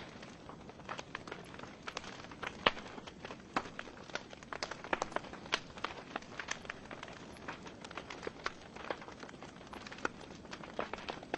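Wood fire crackling in a fireplace: burning logs give off irregular sharp pops and snaps over a soft steady hiss, with one louder pop about two and a half seconds in.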